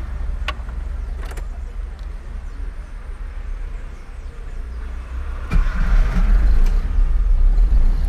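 Two sharp clicks of the ignition key in a Chevrolet Corsa, then about five and a half seconds in the engine cranks and starts, running steadily and much louder from then on.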